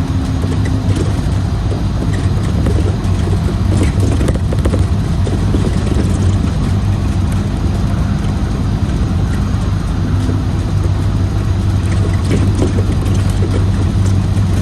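Scania Citywide LE city bus with a compressed-natural-gas engine, running steadily: a continuous low engine drone with road noise.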